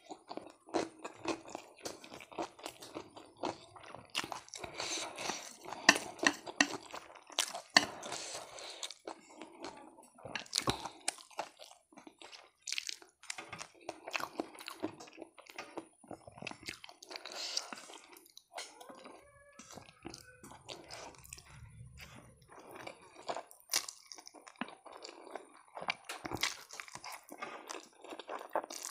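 Close-miked eating sounds: a mouthful of kimbap being chewed and crunched, with many short clicks from the mouth. Near the end, spicy noodles are taken into the mouth from chopsticks.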